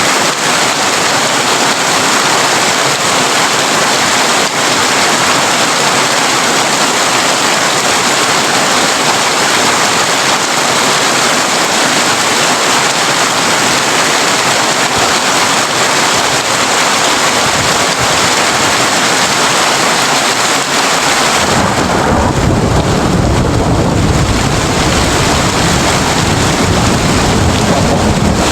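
Heavy rain drumming on a tin roof in a steady, dense hiss. Near the end, a low rumble of thunder comes in suddenly and the rain's higher hiss drops back.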